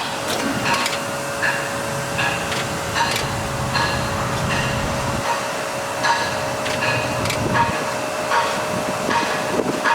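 Short electronic warning beeps repeating evenly about every three-quarters of a second over a steady tone, with a low rumble that stops about halfway through.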